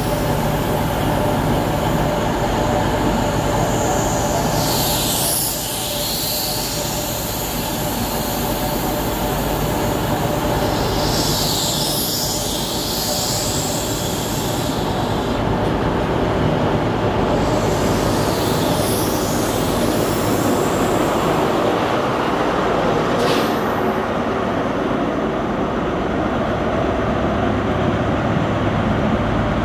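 An HST (InterCity 125) pulling slowly out of the platform, its Mark 3 coaches rolling past with a wheel squeal about every seven seconds over the steady drone of the Class 43 diesel power car. The rear power car comes alongside near the end.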